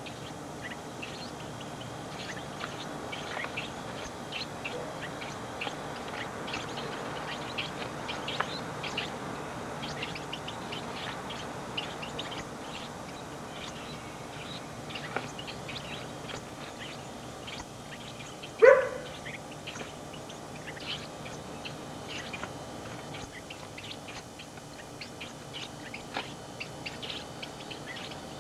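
Birds chirping: many short, high chirps scattered throughout over a steady hiss, with one louder, lower squeak about two-thirds of the way in.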